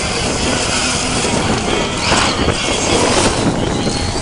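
Monster truck engine running loud and rough, with a brief louder surge about two seconds in.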